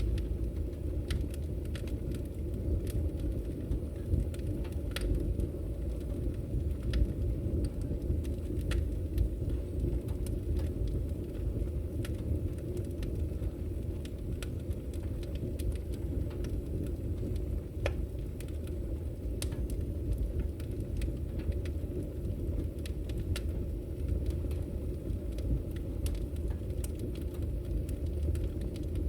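Wood fire burning in a fireplace: a steady low roar of the flames with frequent sharp, irregular crackles and pops from the logs.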